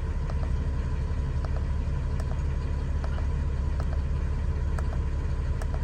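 Ram 5500's 6.7-litre Cummins turbo-diesel idling steadily, a low even rumble with faint light ticks over it.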